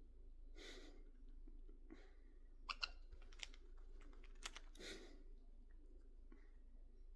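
Near silence with a few faint, sharp clicks around the middle and two soft rustling sounds, one near the start and one about five seconds in.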